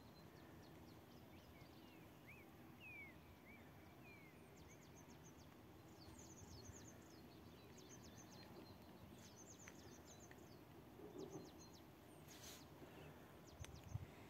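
Faint birdsong over a low steady background hiss: a few short swooping whistles in the first few seconds, then runs of quick, high chirps. Low bumps on the microphone start near the end.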